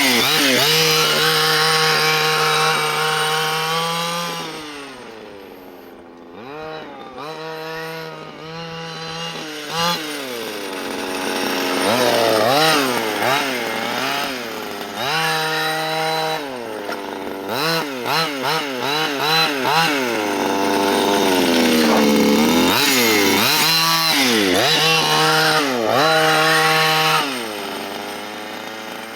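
Dynamite CY23cc 23cc two-stroke gas engine of a 1/5-scale Losi Desert Buggy XL running during break-in, revved up and down over and over, with runs of quick throttle blips and short stretches at a steady speed.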